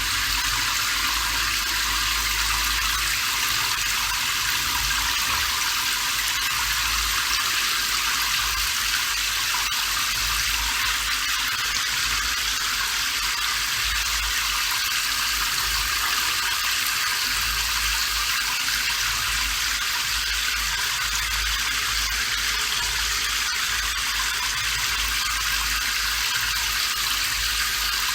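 Steady rain, an even unbroken hiss with a low rumble beneath it.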